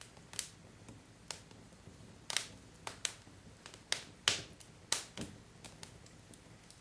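Wood fire crackling: burning logs give off irregular sharp pops and snaps, the loudest a little over four seconds in, over a soft steady hiss of flames.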